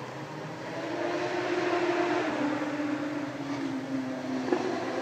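A racing motorcycle engine out of sight on the circuit, growing louder about a second in, its held note then dropping in steps.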